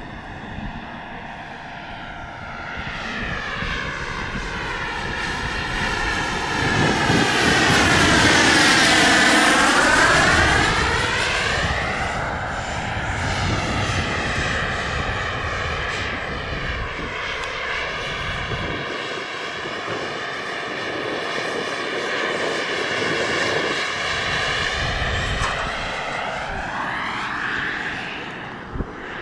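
Radio-controlled model helicopter flying, loudest as it passes close about nine seconds in, the sound sweeping down and back up in pitch as it goes by, with another pass near the end.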